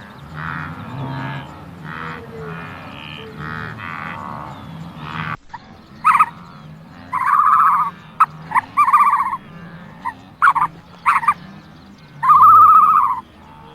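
Frogs croaking: first a dense chorus, then, after a cut about five seconds in, a closer frog giving loud, rippling calls of under a second each, a few seconds apart, with short clicks between them.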